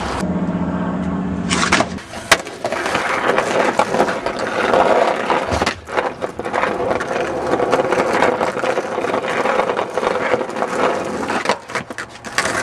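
Skateboard wheels rolling over rough concrete, with repeated clacks and knocks of the board and a sharp loud crack about two seconds in. A steady low hum runs during the first two seconds.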